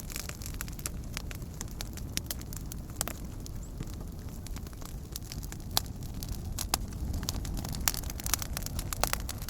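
Campfire crackling: a steady low roar of burning wood with many sharp, irregular pops and snaps.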